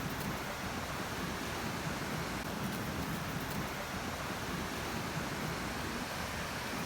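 Steady rushing noise of ocean surf mixed with wind on the microphone, with no separate events standing out.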